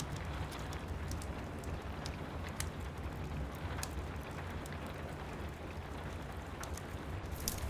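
Steady rain pattering with a low rumble underneath, and scattered sharp crackles from a wood fire in a fireplace, a few more of them near the end.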